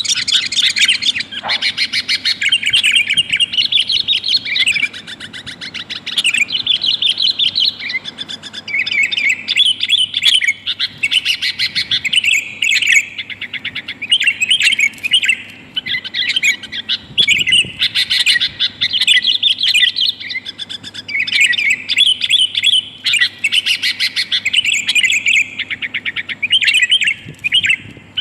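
Sooty-headed bulbul (kutilang) calling in fast, busy chattering runs of a few seconds with short breaks. It is given as a female's call to males, the kind used as a lure to bring wild bulbuls down.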